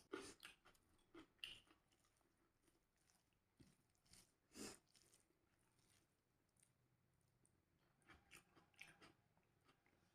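A person chewing food: faint, irregular mouth sounds in short clusters, near the start, about four to five seconds in, and again near the end.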